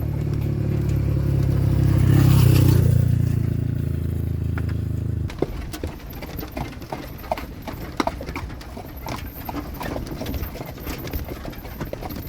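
A motor vehicle's engine running, loudest about two seconds in, then cutting off abruptly a little past five seconds. After that, a horse's hooves clip-clop in irregular sharp clicks on a hard surface.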